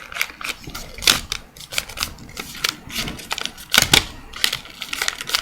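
A sheet of paper being handled, folded and creased by hand, giving irregular crinkles and sharp papery clicks.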